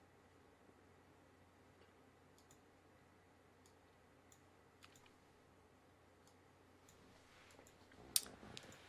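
Near silence with a few faint, scattered clicks from a computer mouse, one louder click near the end.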